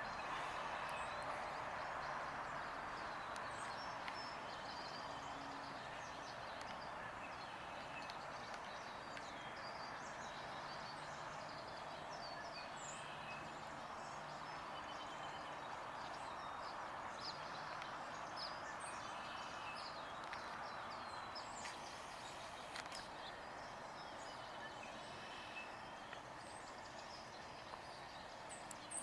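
Small birds giving many short, high chirps throughout, over a steady background rush.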